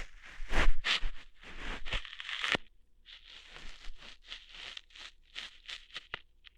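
ASMR ear-hair plucking sounds, close to the microphone: crackly ripping strokes, a short pause about two and a half seconds in, then a quicker run of short snapping plucks.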